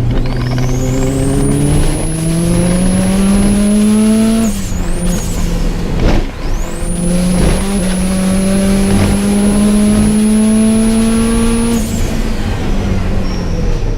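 Subaru Impreza GC8's flat-four boxer engine pulling hard under full throttle, its pitch rising steadily, with a high whistle that climbs and holds while on the throttle. It lets off about four and a half seconds in, then pulls again from about six and a half seconds until a lift near the end.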